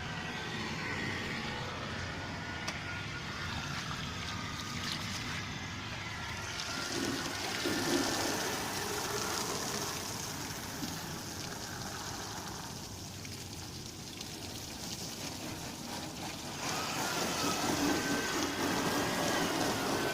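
Water spraying onto and running off a car being washed. The hiss of the spray grows louder for several seconds, eases off for a few seconds, then comes back stronger near the end.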